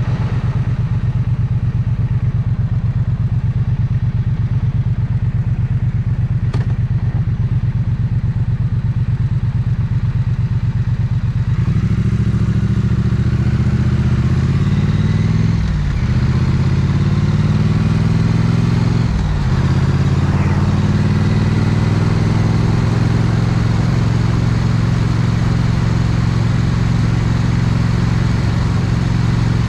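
Triumph Bonneville Street/Speed Twin 900cc parallel-twin engine and exhaust, running at an even, pulsing idle for about twelve seconds. It then revs up as the bike pulls away, with two brief dips in the note for upshifts, before settling into a steady run.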